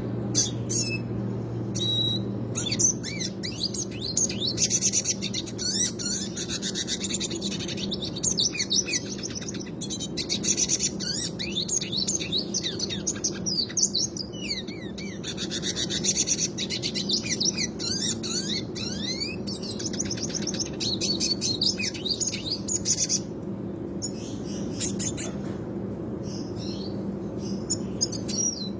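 Red siskin singing a long, continuous rolling song of rapid chirps and trills, with only brief breaks, over a steady low hum.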